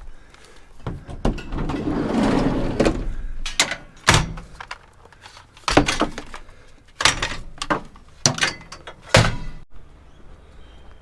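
Hard-rubbish scrap such as power tools being picked up and dropped: a scraping, rummaging stretch about two seconds in, then a string of sharp knocks and thunks as items are set down.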